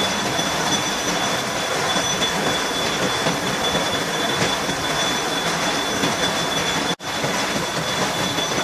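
Milling machine cutting gear teeth: a steady grinding, screeching cut with a thin high whine over it, broken by a brief sudden gap about seven seconds in.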